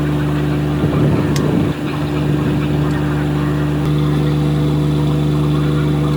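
Rebuilt Hyundai six-cylinder diesel engine running steadily, with a brief louder, rougher patch about a second in.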